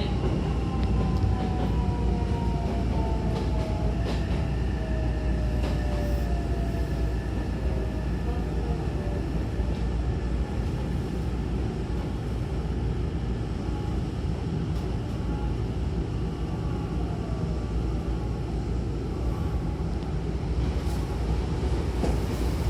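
Hankyu Takarazuka Line electric train running with a steady low rumble, its motor whine falling in pitch over the first few seconds as the train slows.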